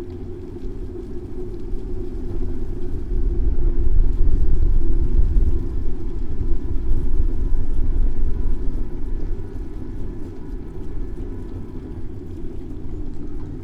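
Low rumble of city traffic and riding noise picked up by a bicycle-mounted camera, swelling from about three seconds in and easing off over the last few seconds.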